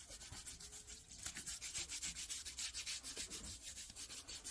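Rapid, even scraping strokes, about five or six a second, something being scraped or rubbed back and forth over a rough surface.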